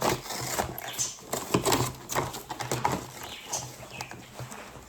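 Toy packaging being opened by hand: irregular crinkling, rustling and clicking as it is pulled and torn.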